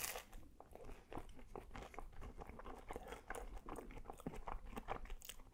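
A person biting into and chewing a crispy falafel waffle: a bite at the start, then many small crunchy clicks of chewing, soft and close to the microphone.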